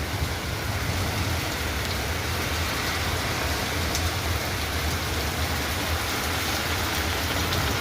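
Heavy rain pouring steadily, a dense even hiss of drops with a low rumble underneath.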